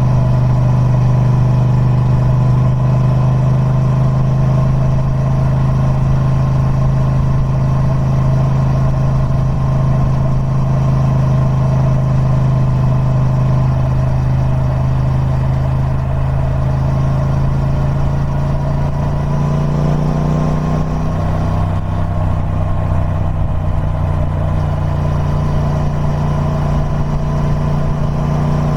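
Triumph Speed Twin 1200's 1200cc parallel-twin engine running on its stock exhaust, a steady note whose pitch shifts about two thirds of the way through, then settles again.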